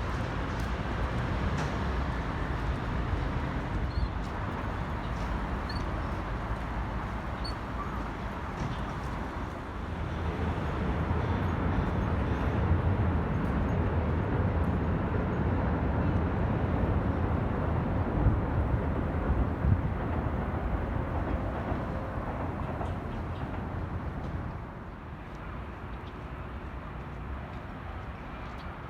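Outdoor city noise with a low traffic rumble, growing louder about a third of the way in and dropping off abruptly a few seconds before the end.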